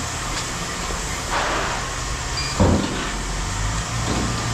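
A vehicle or machine engine running steadily, with a short rush of noise about a second and a half in and one loud thump a little later.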